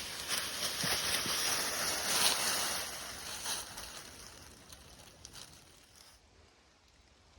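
Wind rushing through the woods with a few faint clicks. It fades away steadily over the second half.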